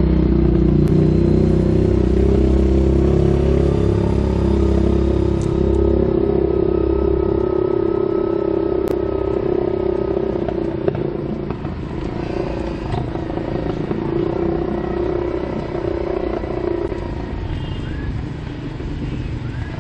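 A small engine running steadily under way, with wind rumble on the microphone; the engine note and rumble ease off about halfway through.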